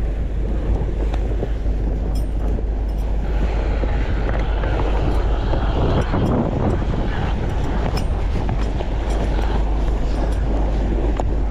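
Steady wind noise on the microphone together with the rush of a sailboat motoring under way: an even, unbroken roar with no distinct engine note.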